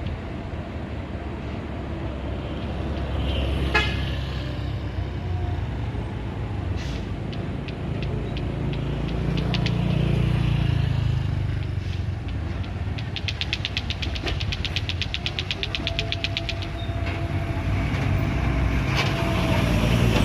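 Engine rumble of a heavy vehicle passing on the road, swelling about halfway through, with a sharp click early on and a rapid ticking for a few seconds later.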